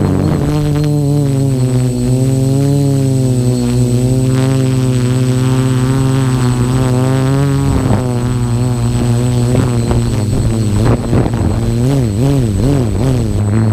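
FPV quadcopter's electric motors and propellers whining steadily, the pitch rising and falling with throttle and swinging up and down more quickly in the last few seconds.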